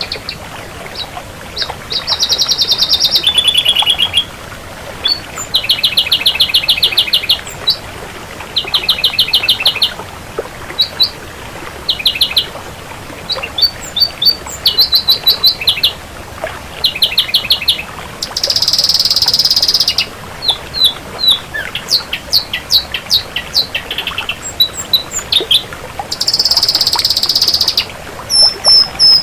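Ashy drongo singing a varied song: phrases of fast rattling trills, buzzy held notes and short sharp whistled notes, each lasting one to two seconds with brief gaps between them.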